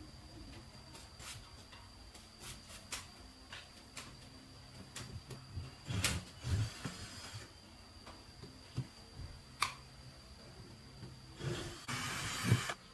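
Workshop handling noises: scattered clicks and knocks of tools and parts, with two short rasping, rubbing bursts, the louder one near the end. A faint steady high whine runs underneath.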